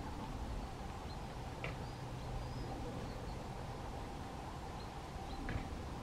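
Faint, scattered short high chirps of small songbirds, with two brief clicks, over a steady low background rumble and a faint steady hum.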